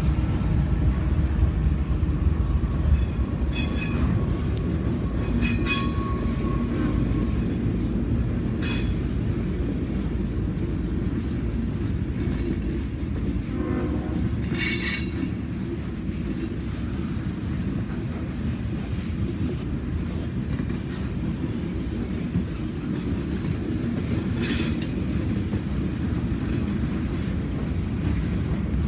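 Freight train rolling past close by: a steady, loud low rumble of wheels and cars, with short metallic screeches and clanks now and then and a thin wheel squeal from about four to seven seconds in.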